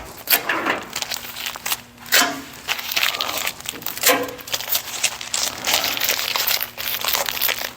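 Crinkling and crumpling of sheet material being handled: a run of irregular crackles.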